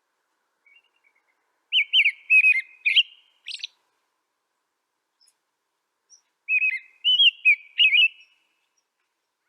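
A songbird singing two short phrases of quick, sliding, warbled notes, the second about five seconds after the first.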